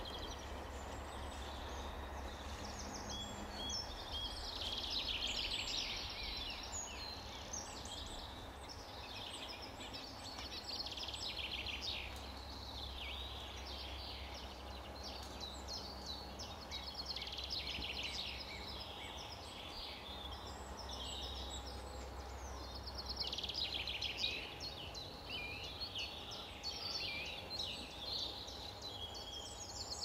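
Songbirds singing in bursts of rapid high chirps and trills, busiest from about four to twelve seconds in and again from about twenty-three seconds, over a low steady hum.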